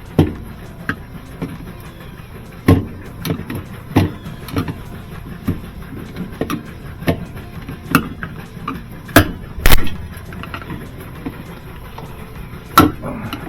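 Irregular knocks and clanks of tools and metal parts being handled while a top-load washer is taken apart, with the loudest pair of knocks about nine and a half seconds in.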